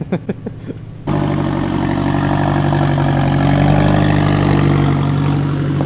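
A car engine running steadily above idle starts abruptly about a second in. Its pitch rises slightly and eases back in the middle.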